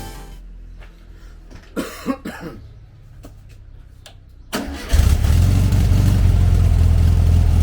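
A few clicks and knocks, then just before five seconds in the 1973 VW Super Beetle 1303's air-cooled flat-four engine catches after a brief crank and runs at a steady idle.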